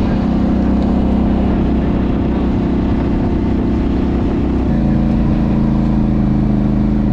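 A vehicle engine running steadily under way, its pitch stepping down about two-thirds of the way through.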